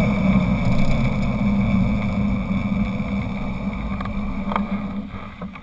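Honda CBR 1000's inline-four engine running at low, steady revs, picked up by the bike-mounted camera, fading steadily away.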